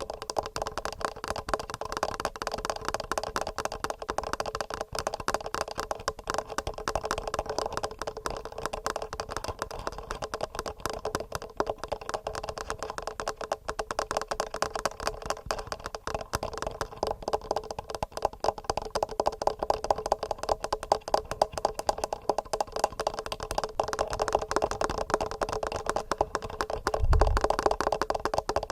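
Fingernails tapping fast and without a break on a TASCAM recorder's microphones, a dense patter of small clicks, with one low thump near the end.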